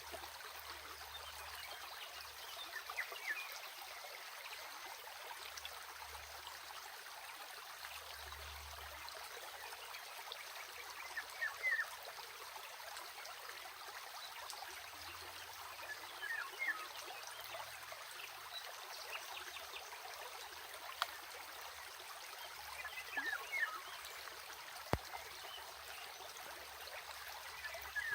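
Small stream running steadily, with brief brighter trickling gurgles every few seconds.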